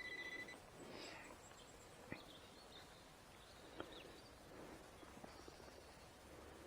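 Near silence: faint open-air ambience with a few faint bird chirps and two soft clicks.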